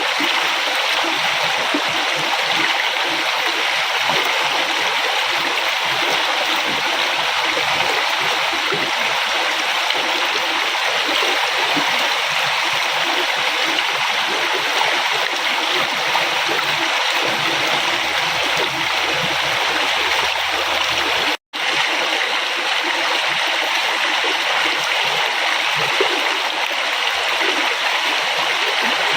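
River water flowing and rushing over rocks, a steady, even splashing and gurgling. The sound cuts out for an instant about two-thirds of the way through, then carries on unchanged.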